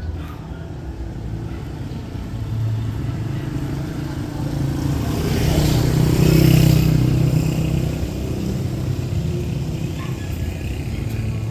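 A motor vehicle passes close by: its engine and road noise grow louder to a peak about six to seven seconds in, then fade, over steady street noise.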